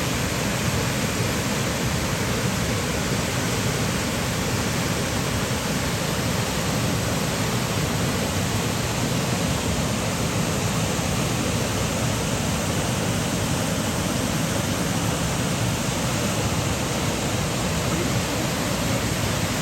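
Waterfall pouring: a steady, even rush of falling water with no let-up.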